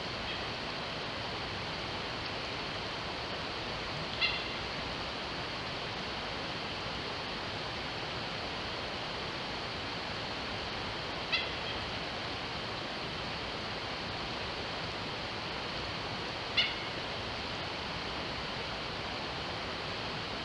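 Steady rush of a mountain stream, with three short, sharp bird calls spaced several seconds apart.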